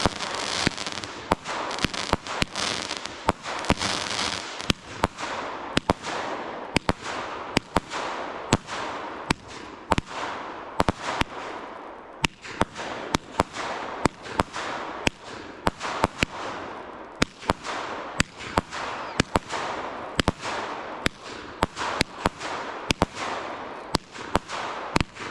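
Fireworks going off in a rapid barrage: sharp bangs about twice a second over a continuous crackling hiss.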